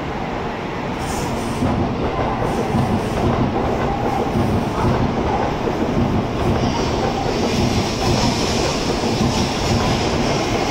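N700S Shinkansen pulling in to stop at the platform: a steady rumble of wheels on rail and running noise. It grows louder about two seconds in as the train reaches the microphone, and a higher hiss joins about six and a half seconds in.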